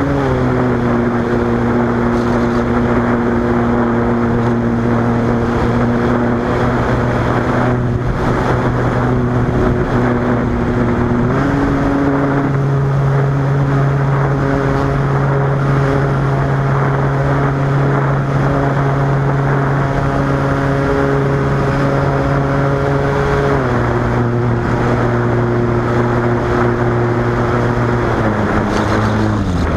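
A Cessna 185's piston engine and propeller droning steadily in flight. The pitch steps down at the start, up about eleven seconds in, down again about halfway through the second half, and drops further just before the end, as the power is changed.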